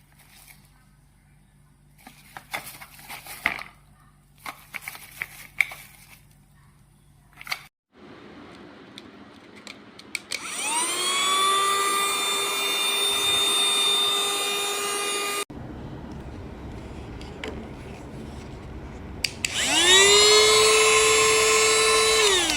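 Handheld cordless mini car vacuum: handling clicks, then its small motor whines up to speed and runs steadily for about five seconds before cutting off. Near the end it is switched on again and spins back up to the same steady whine.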